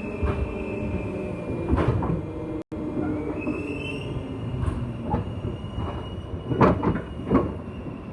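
Interior of a JR West 201-series electric train running on the rails, with a steady high whine and irregular knocks from the wheels over rail joints. The sound cuts out for an instant a little under three seconds in.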